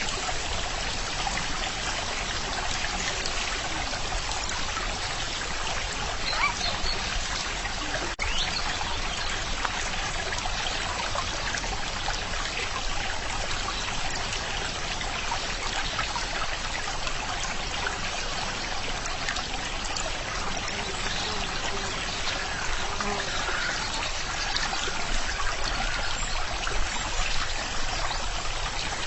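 Running water, a stream trickling and splashing steadily, with many small splashes.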